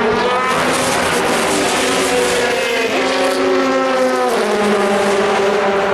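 Endurance race cars' engines running at speed, several at once, their pitch rising and falling as they pass, with one engine's pitch shifting about a second in, near three seconds and again past four seconds.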